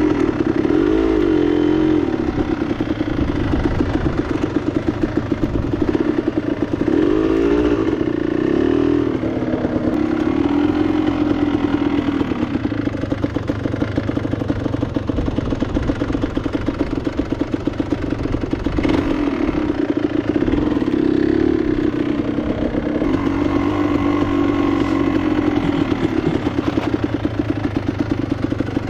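Enduro motorcycle engine running under way, its pitch rising and falling with the throttle several times.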